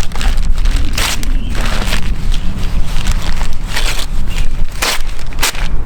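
Wind buffeting the microphone in a steady low rumble, with a few short crackles and rustles standing out about a second in and again near the end.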